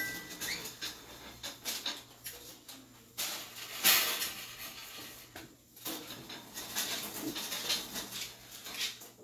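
Sterile gown and glove wrappers being opened and handled: irregular rustling and crinkling of paper and plastic packaging with scattered clicks, loudest about four seconds in.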